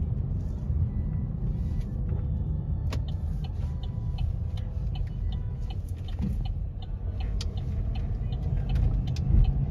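Steady low rumble of a car being driven, heard from inside the cabin, with a few faint clicks over it.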